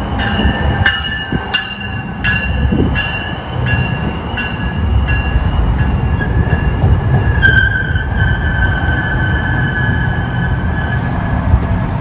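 GO Transit bilevel commuter train pulling into the platform and passing close by: a steady low rumble with a high, steady metallic squeal, and regular clicks about every 0.7 s as the wheels cross rail joints in the first half.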